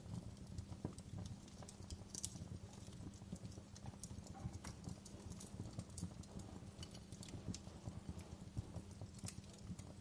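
Wood fire burning in a fireplace: a steady low rumble of flames under dense, irregular crackling, with a few sharper pops.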